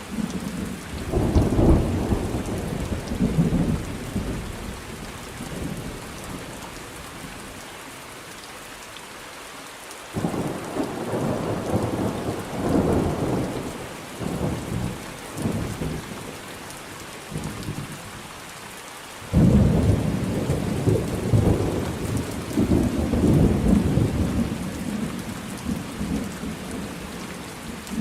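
Thunderstorm: steady rain with rolling thunder. A rumble about a second in dies away, a new peal breaks in suddenly about ten seconds in, and a louder one starts abruptly about nineteen seconds in and rolls on almost to the end.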